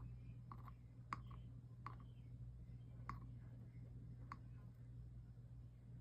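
A few light, sharp clicks at irregular intervals, about five in all, over a faint steady low hum.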